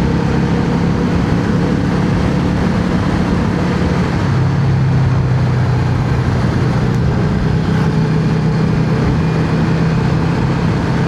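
Yamaha XVS650's air-cooled V-twin engine running steadily under way, over a steady rush of noise; the engine's pitch shifts slightly about four seconds in.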